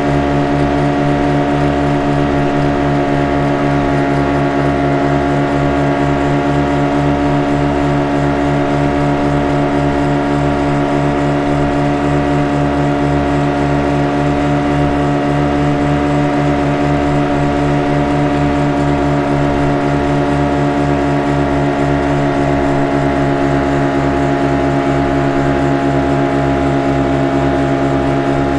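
Boat engine running at a constant speed: an unchanging drone with a fast, even throb underneath.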